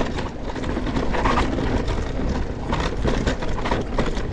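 Mountain bike descending a rocky dirt trail: tyres crunching over loose rocks, with a constant clatter of quick knocks and rattles from the bike.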